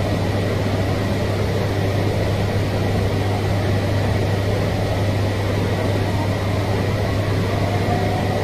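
E5-series Shinkansen train at the platform, a loud, steady low hum under a rushing noise. Near the end a faint higher tone comes in.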